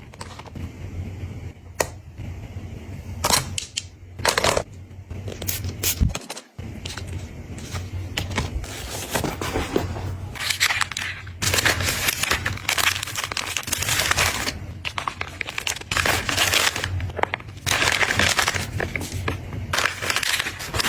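Packaging being handled: crinkling and rustling plastic with scattered clicks and taps of items and containers. The sound is sparse at first and becomes a near-continuous rustle from about eight seconds in.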